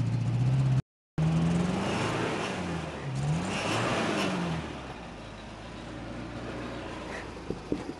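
1981 Toyota pickup's 22R four-cylinder engine revving, its pitch falling and rising a couple of times before settling into a quieter, steady run. The sound cuts out completely for a moment about a second in.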